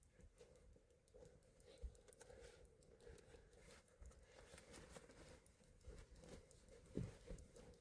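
Near silence: faint scattered ticks and crackles over a faint steady hum.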